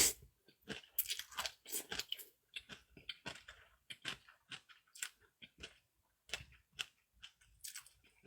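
A person chewing food: a run of short, irregular wet smacks and crunches, a few per second.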